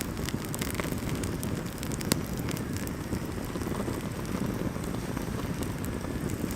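Wood campfire burning, with a steady low rush and scattered sharp crackles and pops, one louder pop about two seconds in.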